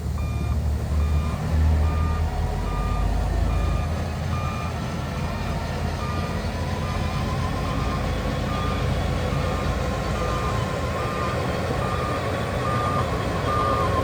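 Reversing alarm of a heavy earthmoving machine beeping steadily, a bit more than once a second, over the running of a large diesel engine. The engine is loudest in the first few seconds.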